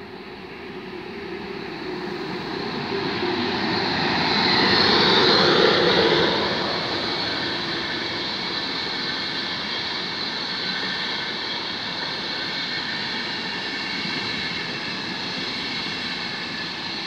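Passenger train approaching and passing at speed: the sound builds to its loudest about five or six seconds in, with a falling pitch as the front goes by, then the steady rolling noise of the coaches passing.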